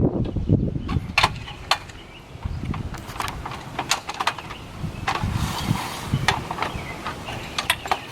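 Irregular light clicks and clanks from gutter cleaning on a ladder, about a dozen of them, over a low rumble that dies away after the first second.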